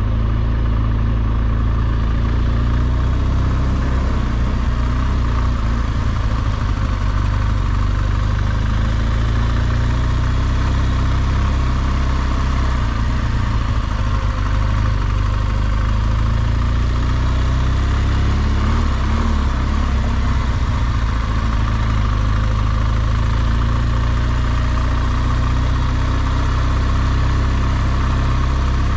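BMW R1200GSA's boxer twin engine running at a steady pace under way, with wind and road noise over it.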